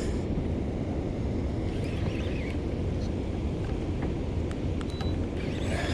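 Steady low rumble of wind on the microphone, with a few faint ticks about four to five seconds in.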